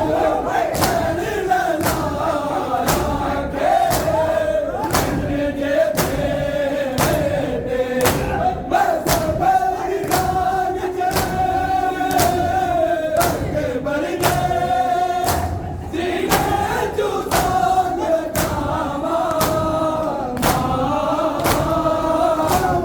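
Group of male mourners chanting a noha in unison, with sharp rhythmic strokes a little over once a second from hands beating chests in matam.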